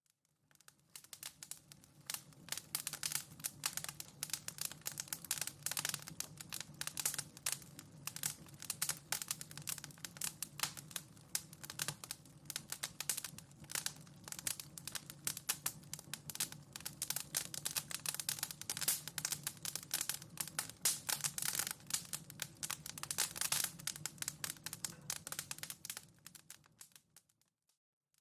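Wood fire in a fireplace crackling, a dense stream of small sharp pops and snaps over a low steady hum. It fades in just after the start and fades out shortly before the end.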